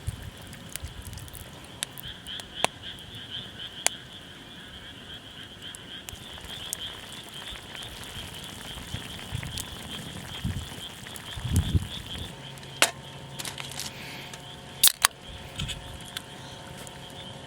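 A frog chorus calling steadily as a continuous, rapidly pulsing trill, with scattered sharp clicks over it.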